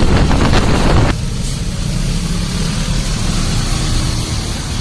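Vehicle running with a steady low rumble of engine and road noise. A louder, rougher rush of noise fills about the first second, then cuts down sharply.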